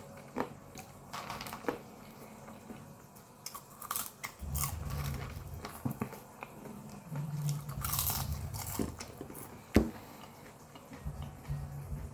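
Popcorn being bitten and chewed close to the microphone: irregular crunches and crackles, with one sharp loud crunch near the end.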